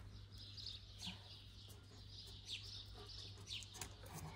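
Small birds chirping faintly, a string of short, high chirps, some of them falling quickly in pitch.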